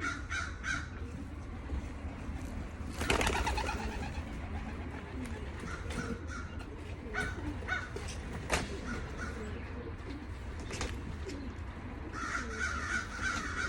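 Racing pigeons cooing in a loft, with short higher chirping calls, a brief loud flurry of noise about three seconds in and a few scattered clicks.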